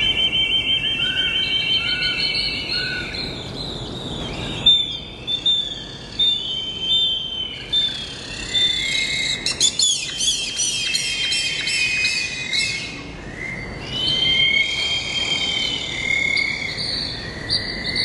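Several birds calling and singing at once: a fast trill at the start, then many short chirps and down-slurred whistles, with a dense rapid chattering stretch in the middle.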